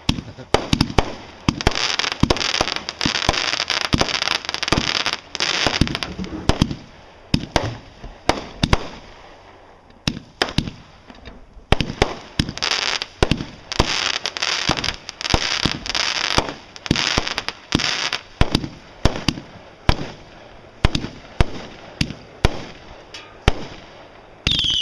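Consumer fireworks going off in rapid succession: two long runs of sharp bangs with dense crackling, with scattered single bangs between them. A loud whistling firework starts right at the end, its whistle falling in pitch.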